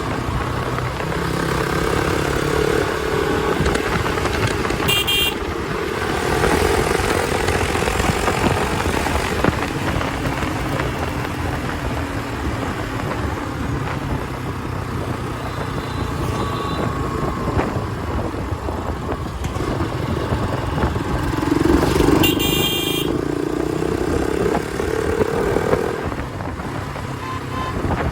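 Hero Xpulse 200 single-cylinder motorcycle with an aftermarket exhaust running while it rides through traffic. Vehicle horns honk briefly about five seconds in and again about twenty-two seconds in.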